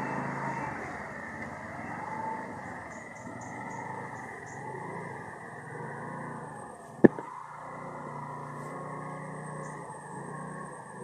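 Heavy rain falling steadily, with a wavering tone in the first couple of seconds. A single sharp click about seven seconds in is the loudest sound.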